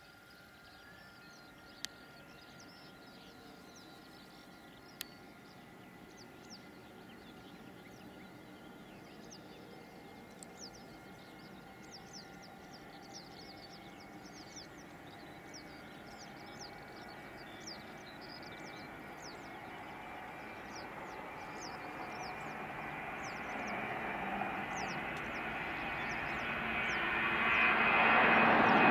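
Airbus A320-233 jet, with IAE V2500 engines, approaching and growing steadily louder, its engine whine rising slightly in pitch. Short high chirps are heard throughout, and two sharp clicks come early.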